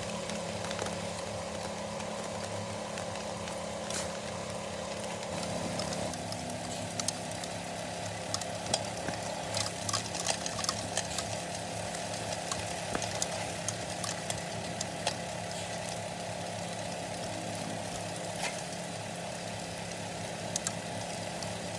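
Washing-machine motor driving a homemade sand sieve: a steady hum that shifts in tone about six seconds in, with a gritty hiss and scattered ticks of sand and small stones shaking on the mesh.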